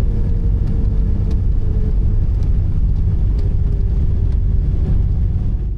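Cabin noise of a Beechcraft G58 Baron: its twin six-cylinder piston engines and propellers running steadily, a dense low rumble with a faint held hum above it.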